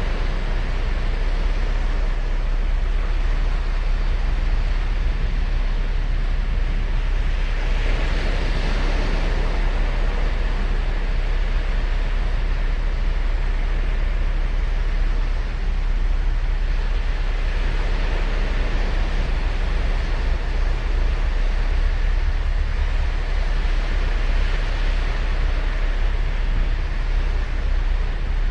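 Ocean surf on a beach: waves breaking and washing in, the rush swelling about three times, over a steady low rumble.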